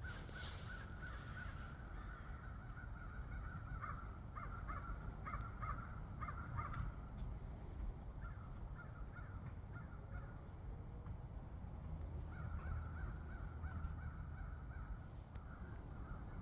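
Crows cawing in several runs of short, repeated calls, over a low steady rumble.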